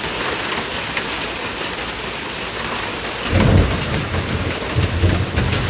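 Heavy rain falling steadily, with a low rumble of thunder rolling in a little over halfway through and swelling on to the end.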